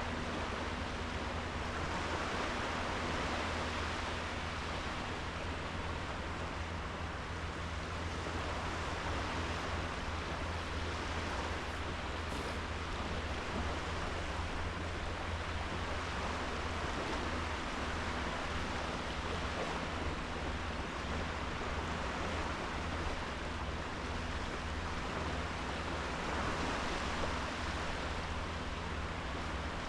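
Small sea waves breaking and washing onto a sandy beach, a steady wash that swells gently every several seconds, with a steady low rumble underneath.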